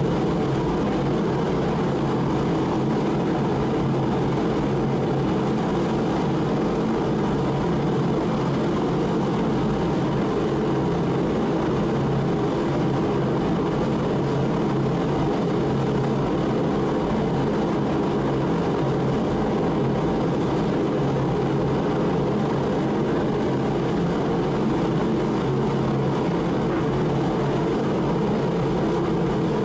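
Mr. Heater 60,000 BTU forced-air propane heater running: a steady roar of its fan and burner flame.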